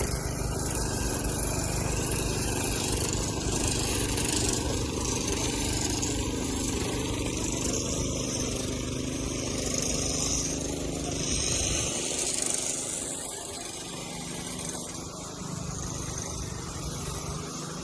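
An engine running steadily amid outdoor noise; its low hum weakens about twelve seconds in.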